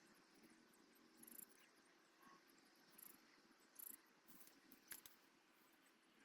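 Near silence: faint outdoor background with a few soft, scattered clicks and rustles, the sharpest about five seconds in.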